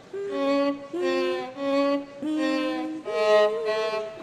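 Violin playing a slow melody of separate long bowed notes, the last one wavering with vibrato.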